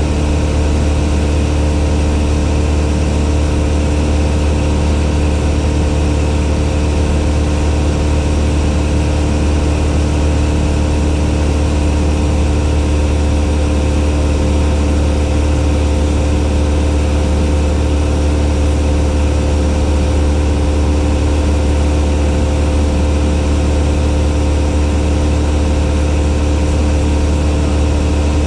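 Cessna 172's piston engine and propeller running at a steady, unchanging speed, a constant drone with no rise or fall in pitch.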